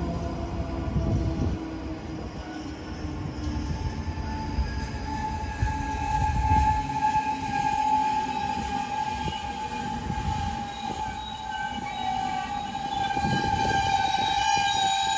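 A train running through on the main line: rumble of wheels on rail with slowly falling tones at first, then a steady high tone with overtones held for the last ten seconds.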